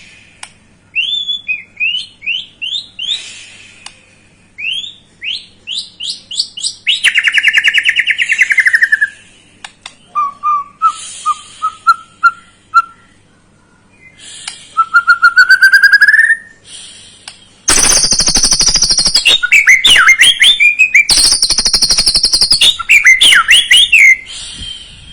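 White-rumped shama (murai batu) singing a varied song of rising whistled notes and quick trills, which breaks into two long, loud harsh rattling passages in the second half.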